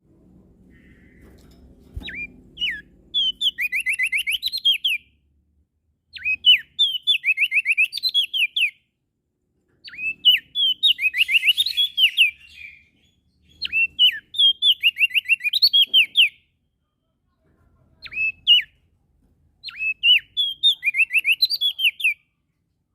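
A prenjak daun songbird singing loud, repeated phrases. Each phrase is a couple of seconds long: a sharp upward note or two, then a fast run of short falling chirps. About six phrases come with brief pauses between them.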